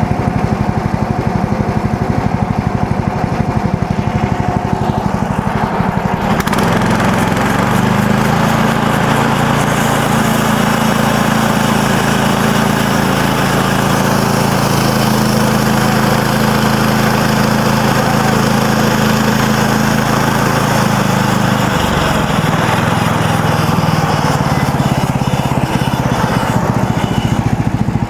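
Gas engine of a MechMaxx SM32 band sawmill running steadily. From about six seconds in a wide hiss joins it and the engine note settles lower as the band blade feeds through a walnut log under load, easing again near the end.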